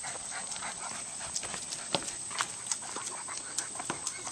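Footsteps knocking unevenly on a wobbly footbridge, several hollow steps a second.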